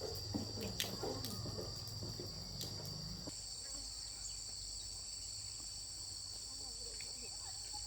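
A steady, high-pitched chorus of insects trilling. A low hum and a few clicks stop about three seconds in.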